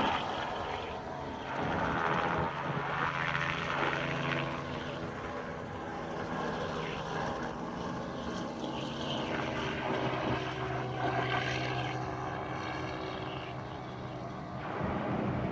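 Helicopter engine and rotors running steadily: a constant low hum under a rushing noise that swells and fades.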